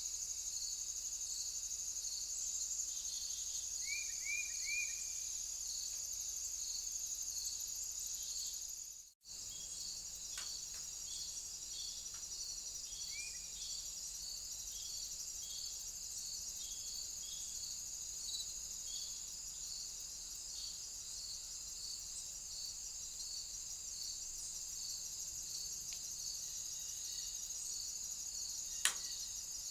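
Crickets and other insects chirping steadily: a high continuous trill with a pulsing chirp about twice a second. A few short chirps, likely birds at the feeder, come about four seconds in, and the sound drops out briefly just after nine seconds where two trail-camera clips are joined. There is one sharp click near the end.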